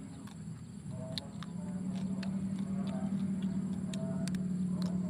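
Close-up chewing of fried sparrow: sharp irregular clicks and crunches of small bones and crisp meat being bitten, over a steady low hum that gets louder about two seconds in.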